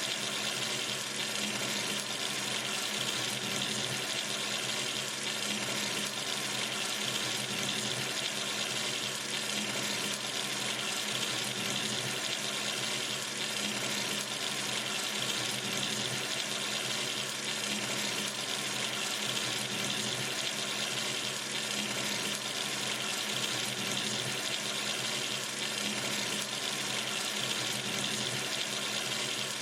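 Water running steadily from a sink tap, an even rushing splash with no change.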